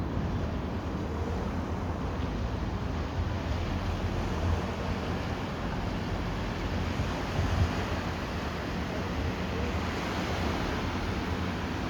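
Wake waves from a passing boat washing and breaking at the water's edge, a steady rushing wash with a couple of slightly louder surges, over low wind rumble on the microphone.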